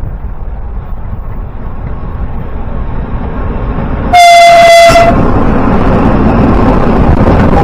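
A train approaching with a rising rumble, then one short horn blast of under a second, about four seconds in. The loud noise of the train passing close by follows.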